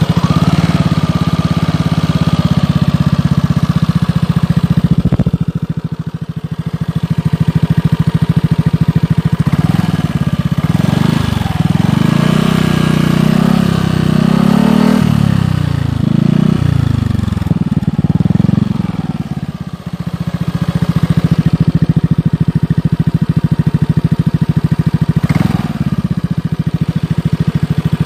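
An engine running steadily at idle, revved up and down several times about halfway through, then settling back to idle.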